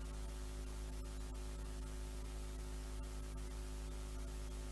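Steady low electrical hum with a faint hiss: mains hum and static in the recording, with no speech.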